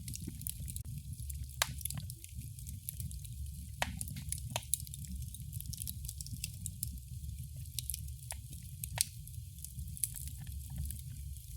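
Wood fire burning in a fireplace: a steady low rumble with scattered sharp crackles and pops, several of them standing out a second or more apart.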